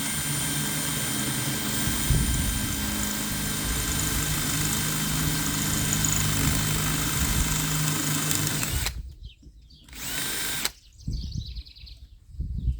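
Electric drill running at a steady speed for about nine seconds, then winding down and stopping, followed by a second short burst of under a second.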